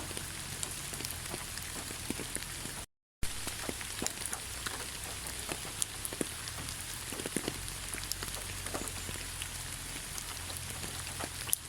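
Steady rain falling in a pine forest: an even hiss with many individual drops ticking close by. About three seconds in, the sound drops out completely for a split second, a gap in the recording.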